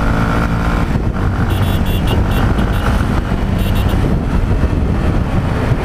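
Yamaha XT 660R single-cylinder engine running steadily in high gear at highway speed, with wind rushing past.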